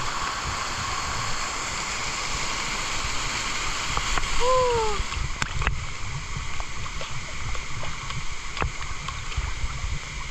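Steady rush of flowing water from the waterfall's stream. A little past four seconds a short rising-then-falling call sounds once; soon after, the rush drops away, leaving scattered clicks and knocks over a low rumble.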